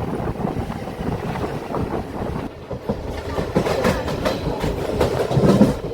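Passenger train running on the rails, its wheels clattering over rail joints, with the clicks and knocks coming thicker from about halfway through.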